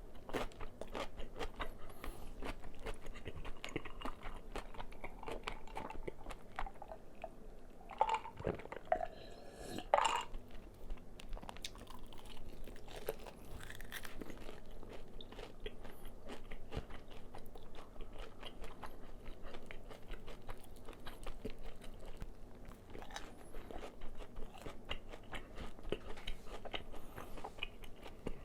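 Close-miked chewing of crispy fried chicken, the batter crust crunching and crackling continuously, with two louder crunchy bites about eight and ten seconds in.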